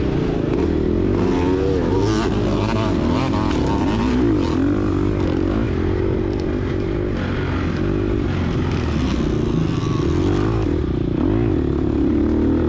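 Gas Gas EX250F four-stroke single-cylinder dirt bike engine being ridden hard off-road, its pitch rising and falling continually with the throttle, with scattered knocks and clatter from the bike over rough ground.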